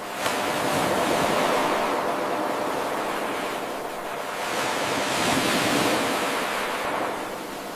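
Ocean surf washing in, swelling and easing twice in a slow rhythm. A brief click about a quarter second in marks the seam of the 8-second loop.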